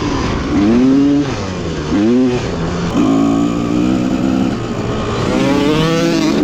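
Dirt bike engine on the ride, its revs climbing and dropping several times with a steadier stretch in the middle.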